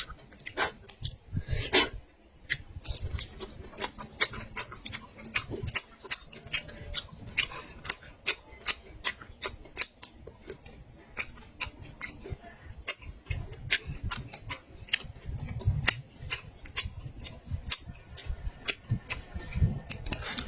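Close-miked chewing of meat, with quick wet mouth clicks and smacks, several a second.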